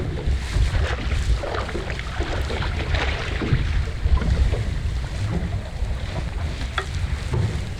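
Strong wind buffeting the microphone on a small open boat, an uneven low rumble, with a few light knocks, one sharper near the end.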